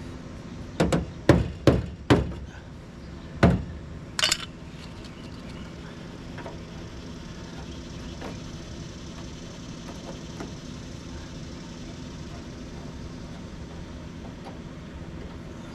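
Several sharp knocks on sheet-metal body panels as a front fender is worked into place: four in quick succession about a second in, one more a moment later, then a higher metallic clink. A steady low hum carries on beneath.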